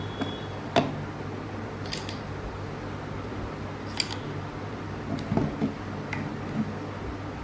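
Scattered sharp clicks and light knocks of small parts being handled, a few seconds apart with a short cluster past the middle, over a steady low hum.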